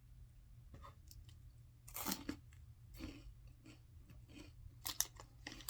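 Close-up chewing of a crunchy cinnamon churro-style snack, with a few louder crunches about two, three and five seconds in.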